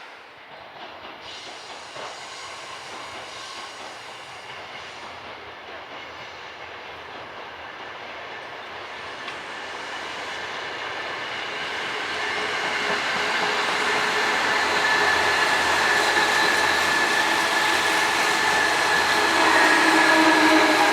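Seibu 2000 series electric train approaching, its running noise growing steadily louder over the second half, with high whining tones from the running gear that slide slightly lower near the end.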